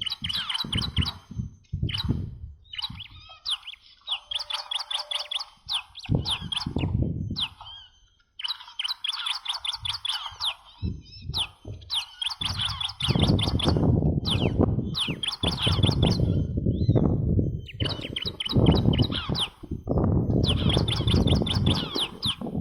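Ciblek batik song: repeated phrases of rapid, high chirping notes, each phrase one to three seconds long with short pauses between. From about halfway through, a low rumbling noise runs under the song.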